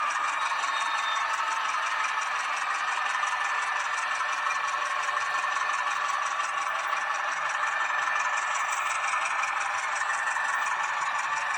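H0-scale model of a Renfe Alco 313 diesel locomotive running on the layout: a steady whir of its motor and wheels on the track, with a fast fine rattle.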